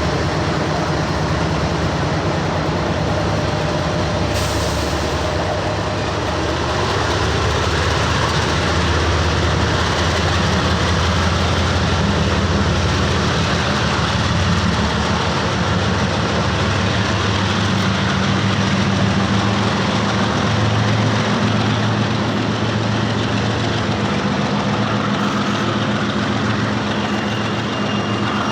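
CSX freight train passing: diesel locomotive engines running under steady load, with the rolling rumble of the train's wheels on the rails, loud and unbroken throughout.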